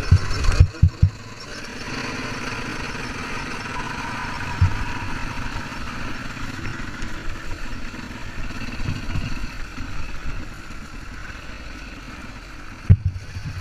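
Dirt bike engine running steadily. Loud low thumps come in the first second and again near the end.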